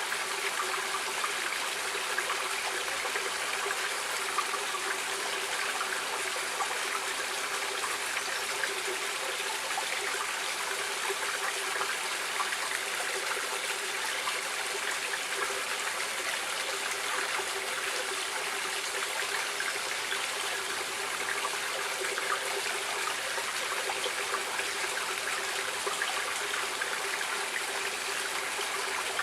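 Stream water running and trickling steadily, an even rushing with a fine, lively splashing texture.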